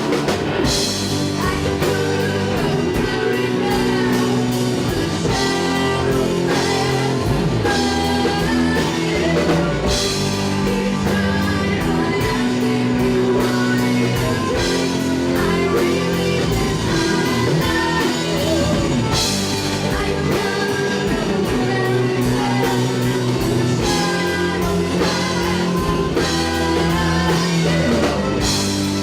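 Live rock band playing with guitar and a drum kit keeping a steady beat, with singing.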